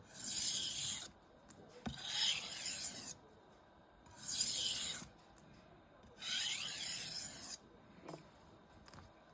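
Knife blade drawn along a honing rod in four strokes, each a scraping hiss about a second long with short pauses between, taking the burr off the freshly ground edge.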